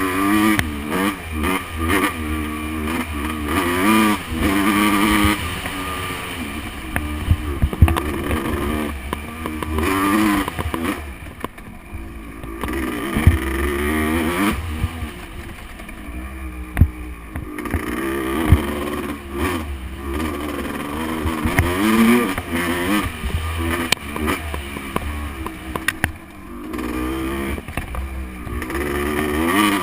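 Motocross bike engine revving hard and easing off again and again as it is ridden, with a steady rumble of wind on the microphone. There are a few sharp knocks along the way.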